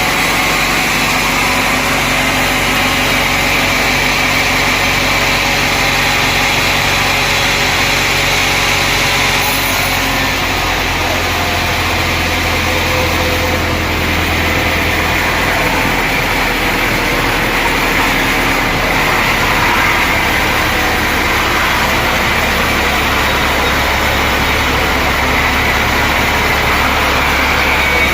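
Sawmill machinery running steadily: a continuous engine hum with a higher whine above it, the low hum changing pitch about ten seconds in and again about sixteen seconds in.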